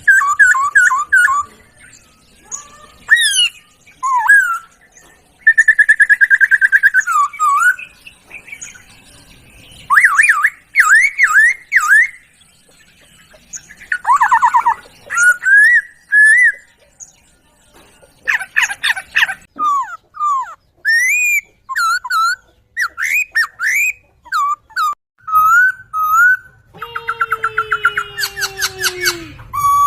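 Songbird song from a poksay (laughingthrush) masteran tutoring track: a varied run of clear whistles, rapid trills and chirps in short phrases with brief pauses. Near the end a long falling whistle sounds under a fast trill.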